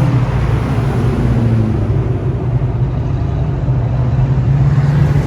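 Engines of classic muscle cars and trucks running at low speed as they roll past in a slow line, a steady, deep, loud exhaust note.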